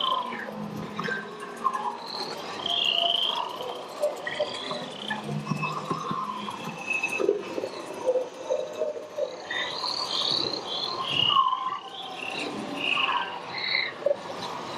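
Na'vi River Journey jungle soundscape: many overlapping frog-like croaks, chirps and trills of rainforest creatures calling.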